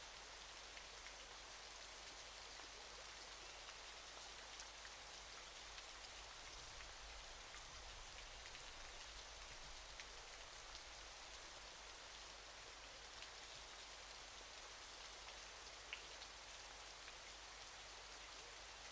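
Soft, steady hiss of falling water with faint scattered ticks of drops.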